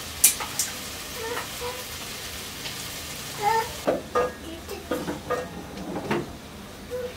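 Food sizzling and frying in a metal pot as it is stirred with a wooden spoon; the sizzle drops away about four seconds in, leaving soft knocks of the spoon.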